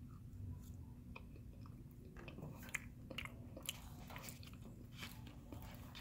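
Close-up chewing of a forkful of Cinnabon cinnamon roll, with scattered small clicks and mouth smacks, over a faint low steady hum.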